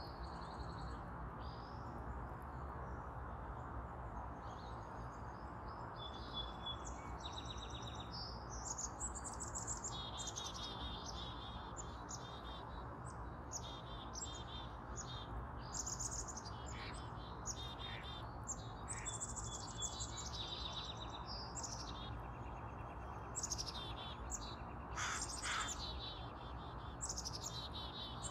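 Small birds chirping and singing, many short high notes and trills overlapping, busier from about eight seconds in, over a steady low background rumble.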